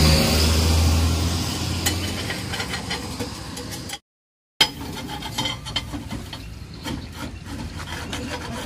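A motor vehicle passes on the road, its engine hum loudest at the start and fading over the first few seconds. After a brief cut-out, a metal spatula scrapes and taps on a crepe griddle with small clicking sounds.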